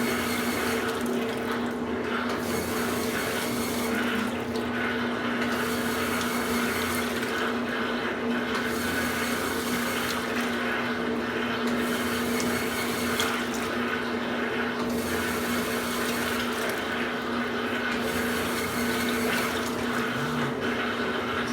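Washing machines running: the LT06's drain pump hums steadily as water is pumped out. Over it, water swishes in the drum, swelling and fading every few seconds.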